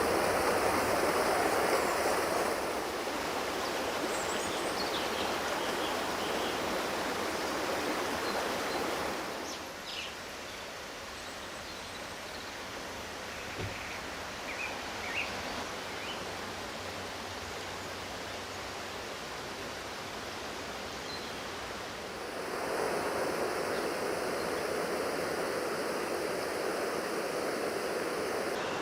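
Floodwater rushing steadily, a constant hiss of flowing water. It drops in level about ten seconds in and rises again about twenty-two seconds in.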